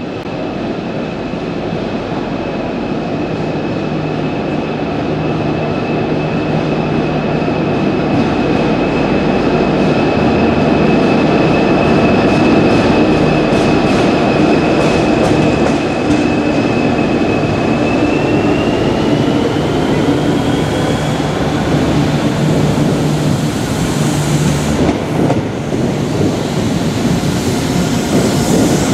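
An Irish Rail 201 class diesel-electric locomotive running slowly into and through a station hauling coaches, its engine hum growing louder as it nears. A thin, steady high squeal from the wheels rises in pitch after about 18 seconds, and a quick run of clicks over rail joints comes around the middle.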